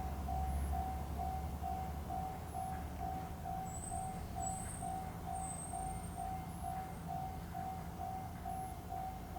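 An electronic beep repeating evenly about three times a second, over a low rumble.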